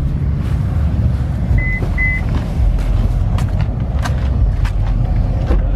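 Car engines running in a low, steady rumble, with two short electronic beeps about two seconds in and several sharp clicks in the second half.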